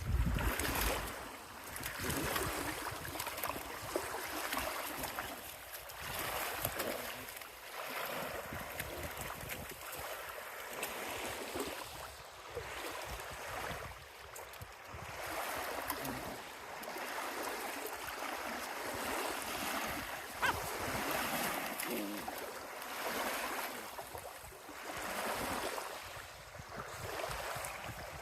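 Small waves washing up on a shore, the surf swelling and fading every two to three seconds, with one brief sharp sound about two-thirds of the way through.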